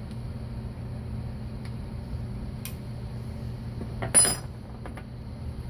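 Metal clinking against metal during a bending job: a few light clicks, then one sharp metallic clink with a brief ring about four seconds in. A steady low hum runs underneath.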